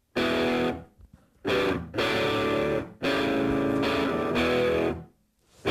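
Electric guitar playing held chords, each struck sharply and let ring for about half a second to two seconds, with brief silent breaks between them.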